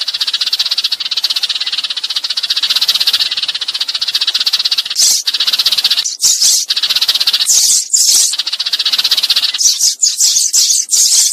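Sparrows giving a fast, dry, rattling chatter: a flock-calling lure recording. A continuous run of rapid ticks breaks into separate chattering bursts about halfway through.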